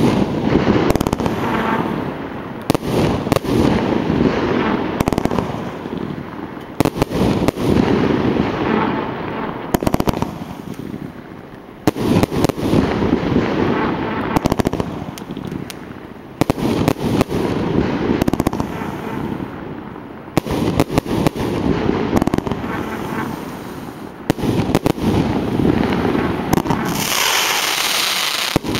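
Aerial fireworks firing in rapid succession: repeated sharp bangs as shells launch and burst, with hiss and crackle filling the gaps. Near the end a stretch of brighter hissing takes over.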